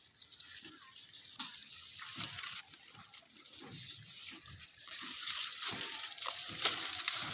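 Wet soil being dug and scooped by hand, with irregular soft squelching thuds and scrapes, under a steady hiss of light rain.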